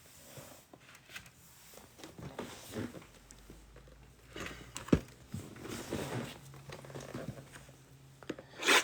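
Cardboard and plastic rustling, crinkling and light knocks as a trading-card box is opened and its foil packs handled, with a sharp tap about five seconds in and a louder rustle near the end.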